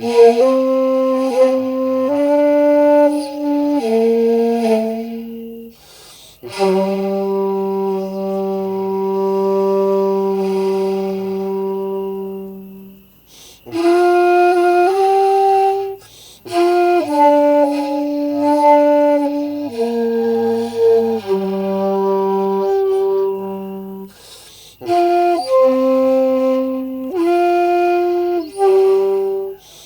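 Shakuhachi-type end-blown bamboo flute playing a slow solo melody of long held notes. The phrases are broken by short breath pauses, and one note is held for about six seconds.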